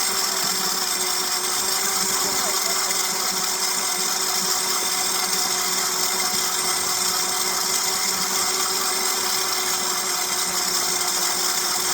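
Electric bike motor whining at a steady pitch under way, over a steady hiss of wind and tyre noise.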